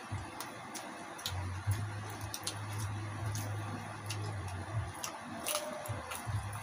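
Eating crispy deep-fried pig's head: irregular crunchy clicks and wet mouth sounds of chewing, over a low hum that comes and goes.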